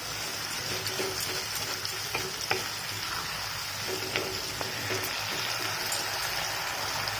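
Jaggery and tamarind paste sizzling in hot mustard oil in a kadhai as the jaggery melts, stirred and scraped with a wooden spatula. A few light knocks of the spatula on the pan come through the steady sizzle.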